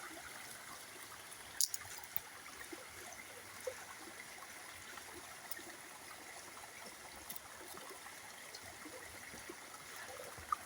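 Small stream trickling steadily, with a few sharp clicks a little under two seconds in.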